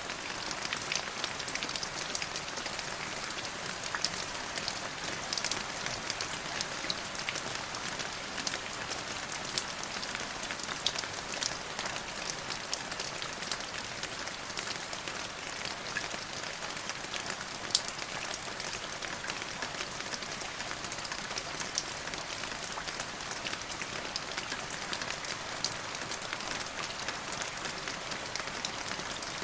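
Steady rain falling on a surface: an even hiss full of many small, close drop ticks.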